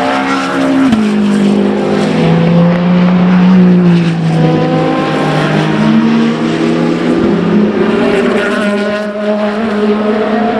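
Racing car engines running at speed on track, the pitch stepping down about a second in, then sliding lower and climbing again later, with several engines overlapping near the end.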